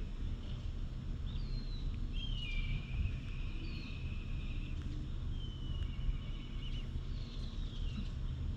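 Wild birds calling: several short whistled calls that glide downward, and two longer trilling phrases, one about two seconds in and one about five seconds in, over a steady low rumble.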